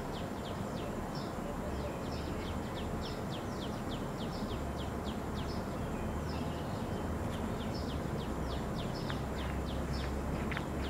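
A bird chirping over and over, short falling high notes at about three a second, over a steady low outdoor rumble.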